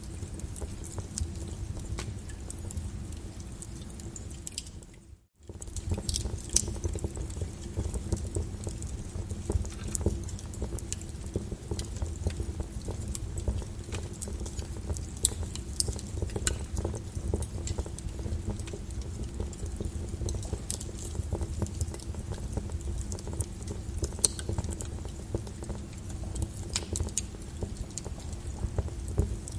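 Rain and a crackling wood fire layered together: a steady rain hiss over a low rumble, with scattered sharp crackles and pops from the burning wood. The sound cuts out for a split second about five seconds in.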